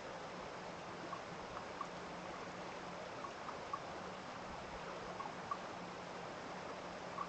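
Small stream running steadily, with a small bright plink of water now and then.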